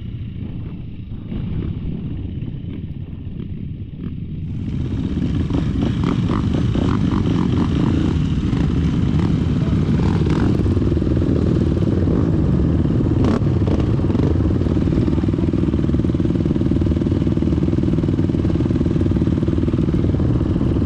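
Off-road dirt bike engine running while riding. It gets louder and steadier about four and a half seconds in, with a couple of sharp knocks from the bike along the way.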